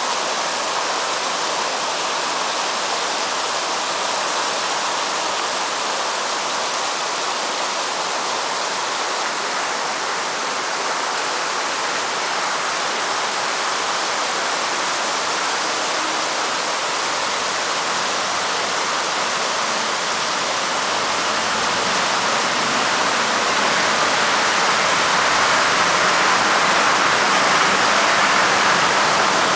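Heavy rain pouring down steadily, growing somewhat louder about two-thirds of the way through.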